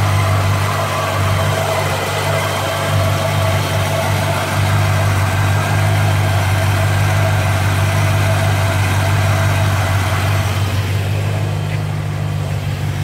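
1957 Chevrolet engine idling steadily, with no clack from the exhaust; the owner thinks the leaking exhaust manifold is now sealed after tightening its rusted bolts.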